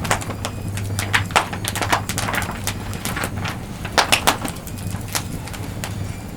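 Wood campfire crackling with irregular sharp pops, over a steady low hum.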